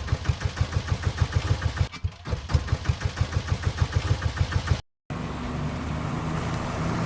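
Diesel tractor engine chugging at idle with even low thumps, about nine a second. About five seconds in it cuts off abruptly and gives way to a steadier, smoother engine hum.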